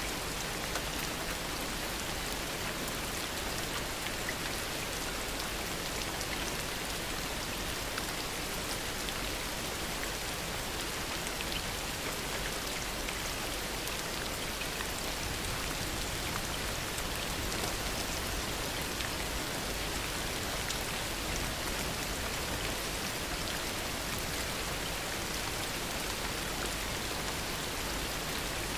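Steady heavy rain falling, an even hiss with many individual drops pattering on surfaces.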